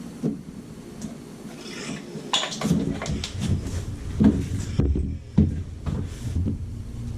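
Scattered knocks and clicks of tools and small parts being handled, over a low steady rumble that comes back about two and a half seconds in.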